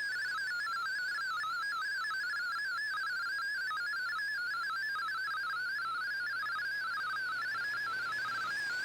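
MFSK digital data signal from a shortwave broadcast heard through a communications receiver: a steady warble of rapidly stepping tones centred around one and a half kilohertz, at a constant level.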